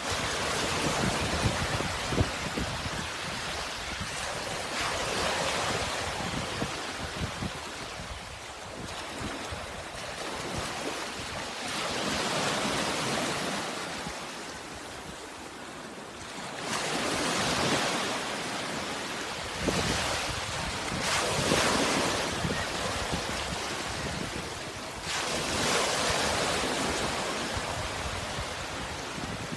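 Sea waves washing in, each surge swelling and falling away every few seconds, with some wind on the microphone.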